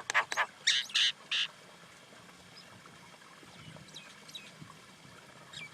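Common myna calling: a quick run of loud, harsh calls in the first second and a half, then a lull with faint scattered chirps and a few more calls near the end.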